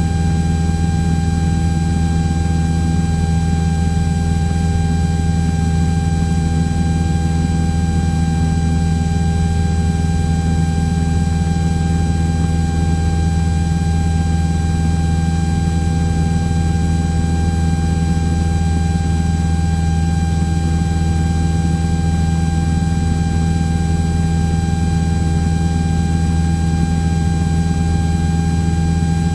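Cessna 172's single piston engine and propeller droning steadily in the cabin during a climb, heard through the cockpit recording with a thin steady whine over the low drone.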